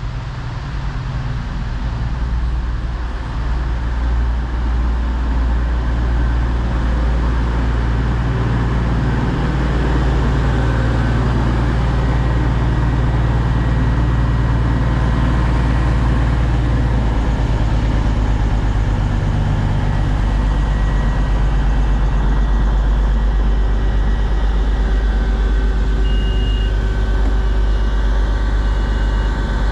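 Class 222 Meridian diesel multiple unit's engines running with a steady, loud low drone at the platform, building over the first few seconds and then holding. Short high beeps sound near the end.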